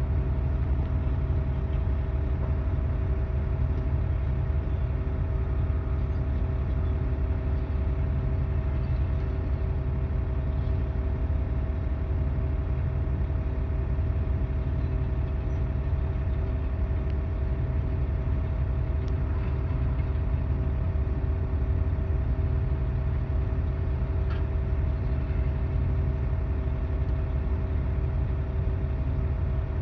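Heavy diesel equipment engine running at a steady speed: a continuous low rumble with a steady hum over it, unchanging throughout.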